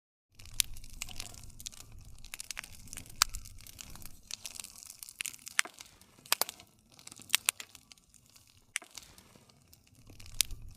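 Wood campfire crackling: irregular sharp pops and snaps, several of them loud, over a soft hiss and a low rumble of burning. It starts out of a moment of silence.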